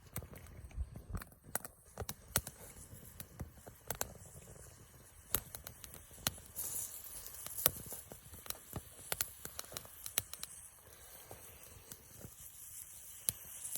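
Small wood fire crackling in a titanium Firebox stove: irregular sharp snaps and clicks, some close together and some a second or more apart.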